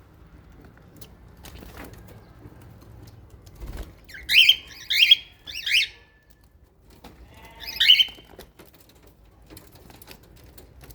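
Small parrots in an aviary giving loud, harsh calls: three in quick succession around the middle, then one more about two seconds later.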